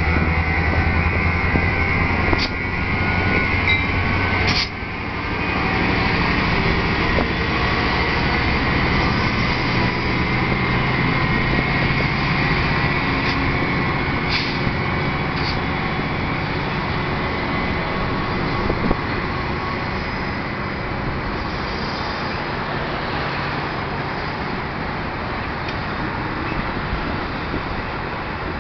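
Metra MP36PH-3S diesel locomotive pulling a commuter train out of the station. Its engine hum is strongest early on and fades as it draws away, leaving the rolling noise of the passing bilevel coaches, with a few sharp clacks.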